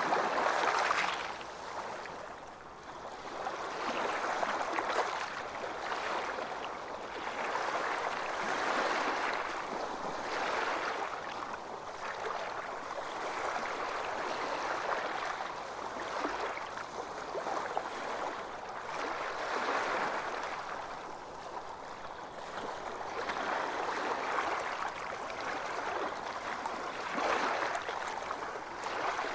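Ocean surf washing onto a beach: a steady rush of water that swells and fades every few seconds, loudest right at the start.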